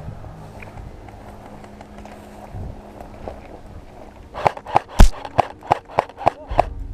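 A low steady background, then about four and a half seconds in a quick, uneven run of about ten sharp knocks over two seconds.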